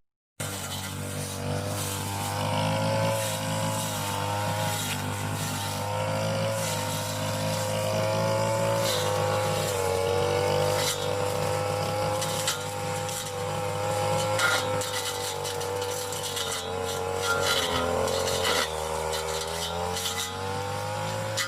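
Backpack brush cutter's small petrol engine running at working speed, its pitch wavering a little as it cuts, with scattered sharp clicks and ticks.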